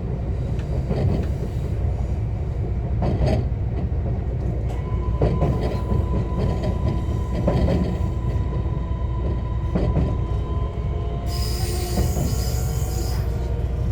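Running sound inside a JR West 125 series electric railcar with a Toyo IGBT inverter: a steady low rumble with regular clacks of the wheels over rail joints and a steady tone through the middle. Near the end a high-pitched squeal lasts about two seconds.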